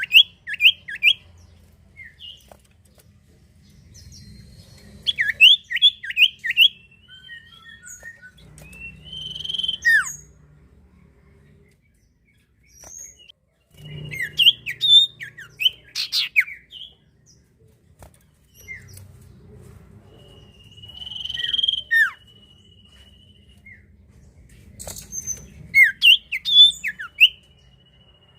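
A sirtu (cipoh), a common iora, singing in bouts: quick runs of sharp chirping notes, broken by long, thin, steady whistles.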